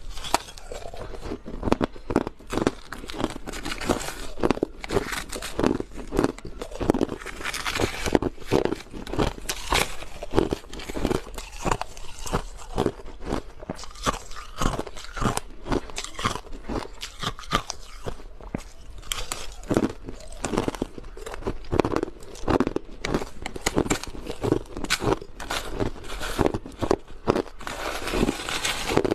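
Crushed ice being bitten and chewed close to the microphone: a rapid, continuous run of crisp crunches.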